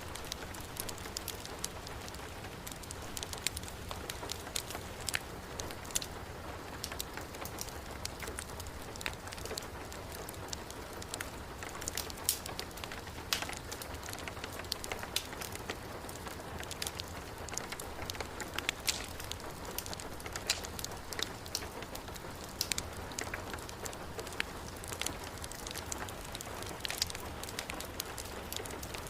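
Heavy rain falling steadily, mixed with a wood fire crackling, with many sharp irregular clicks and pops over the hiss.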